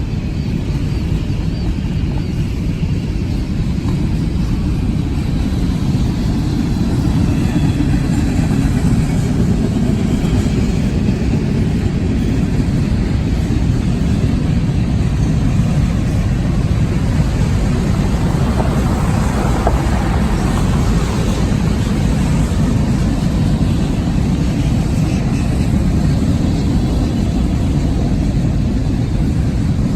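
Freight train cars rolling past on the rails: a loud, steady low rumble of wheels on track, with a slight rise in higher-pitched wheel noise about two-thirds of the way through.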